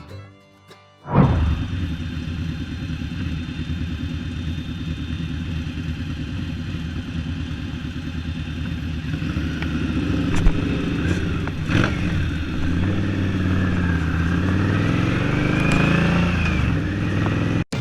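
Motorcycle engine running while riding. It starts abruptly about a second in, and from about halfway its pitch rises and falls as the throttle changes, with a couple of sharp knocks.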